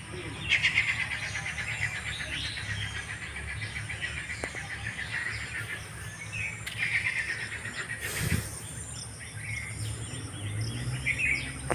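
Small birds chirping in rapid trills, loudest about half a second in and again around seven seconds, with a short burst of noise around eight seconds.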